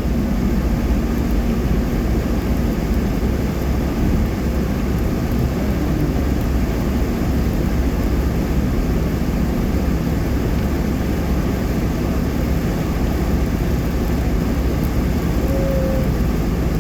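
Steady low rumble of a car's tyres and engine heard inside the cabin while driving at speed on a wet highway.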